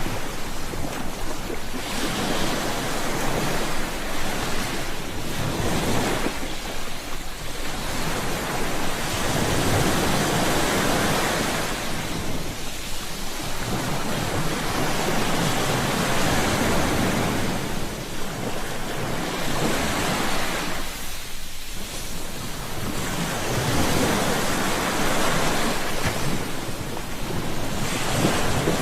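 Ocean surf: waves rise and fall in repeated swells, one about every four to five seconds.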